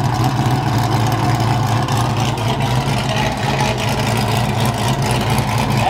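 Car engine idling steadily through an aftermarket muffler being tried out, with a low, even exhaust note and no revving.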